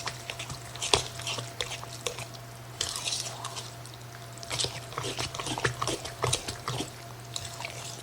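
A spoon stirring a thick, wet batter of corn muffin mix, melted butter, whole kernel corn and cream style corn in a bowl: irregular squelching with clicks and scrapes against the bowl. A steady low hum runs underneath.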